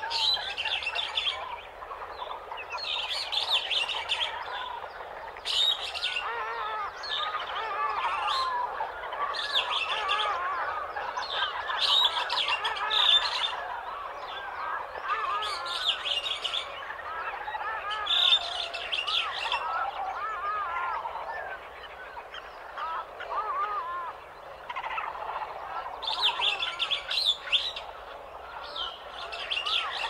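Morning chorus of many African forest birds: a dense mix of warbling and chirping calls, with a high chattering call recurring every couple of seconds.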